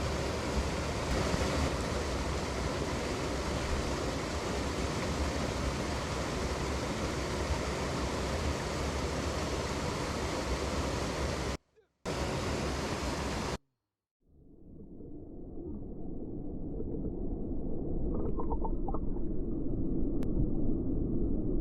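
Rushing mountain-stream water, a steady hiss. It cuts out twice about halfway through, then fades back in duller and lower.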